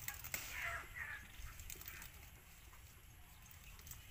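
A few short bird calls about half a second to one second in, over scattered crackles and rustles of leafy plants being handled.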